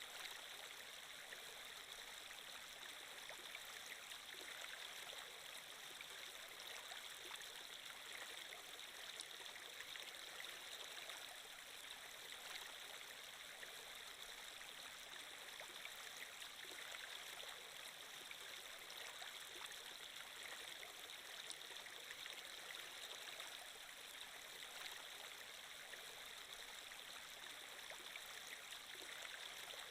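Faint, steady flowing-water sound effect, like a running stream, with an even rushing hiss that does not change.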